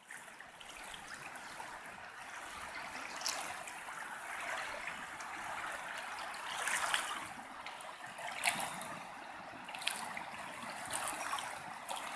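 River water flowing and trickling, a steady rushing noise that swells and eases, with a few faint short clicks; the river is running high, still about four or five feet above its normal level.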